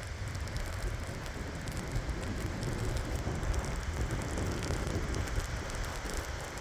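Strong wind gusting over the microphone with a low rumble, and wind-driven snow striking around it as many fine, dense ticks, in near-blizzard conditions.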